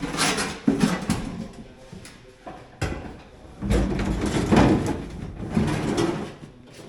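Irregular clunks, scraping and clattering of metal parts and covers being handled and slid around, in uneven bursts with short pauses between.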